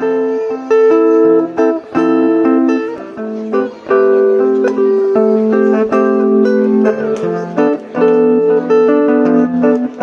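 Guitar played live, a steady run of plucked notes and chords ringing on, as an introduction before the singing.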